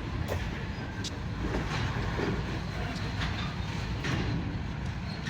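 Short freight train of tank cars rolling by: a steady low rumble with wheel clicks about once a second.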